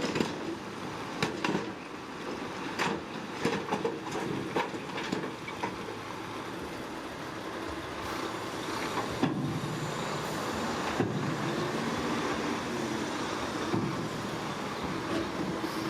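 Heavy earthmoving machinery working rocky ground: a diesel engine runs steadily under a clatter of metallic clanks and knocks, thickest in the first six seconds and a few single knocks later.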